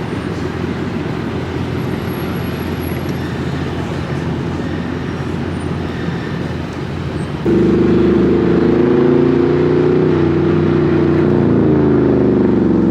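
Car engine and road noise running steadily; about seven and a half seconds in it suddenly gets much louder, with the engine's drone rising and falling in pitch as it pulls.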